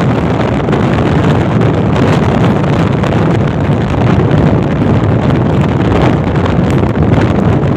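Loud, steady wind buffeting the microphone over the rumble of a passenger express train running at speed, heard from an open coach door.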